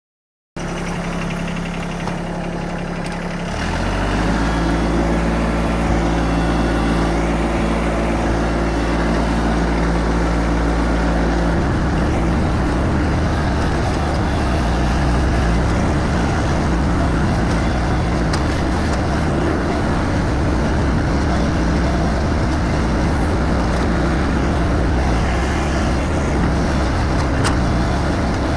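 A motor vehicle's engine running: a steady low hum that gets louder about four seconds in, then turns rougher and noisier about twelve seconds in.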